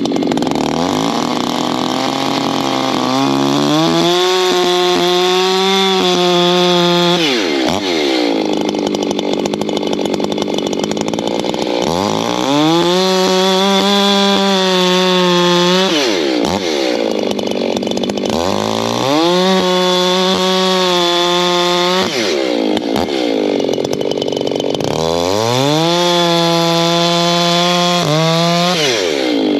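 Two-stroke Echo chainsaw bucking oak into firewood rounds. The engine is opened up to a high steady pitch for a few seconds, then drops back sharply, four times over.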